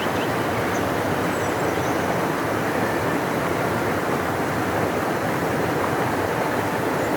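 Large river rushing steadily: an even, unbroken roar of flowing water.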